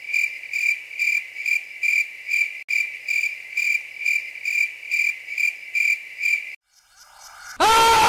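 A cricket chirping steadily, about two to three chirps a second, that cuts off suddenly near the end. Just before the end a loud, harsh noisy blast starts.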